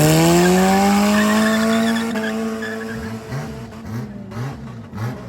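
Car engine accelerating hard at full throttle, its pitch climbing and levelling off before it fades away. Then a second engine revs in short repeated blips, about two a second.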